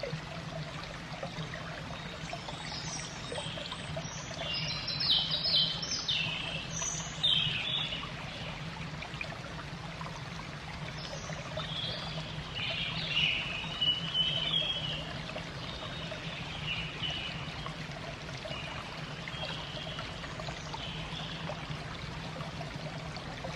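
Steady trickle of running water with birds chirping over it, in a cluster of calls a few seconds in and another around the middle; a low steady hum runs underneath.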